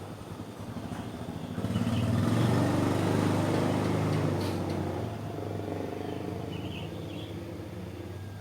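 A motor vehicle's engine passing, its low hum swelling less than two seconds in and slowly fading away, with a few faint bird chirps.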